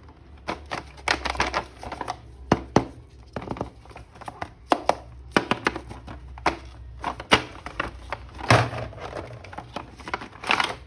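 Plastic toy packaging and action-figure parts being handled: quick irregular clicks and taps, with a couple of crinkling rustles near the end.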